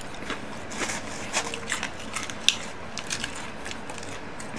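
Close-up chewing of crunchy fried batter pieces: a run of irregular crunches, with a sharper crack about halfway through.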